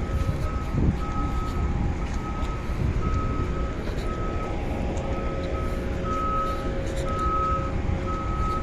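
Electronic warning beeper sounding a steady high beep about once a second, over a constant low machinery rumble.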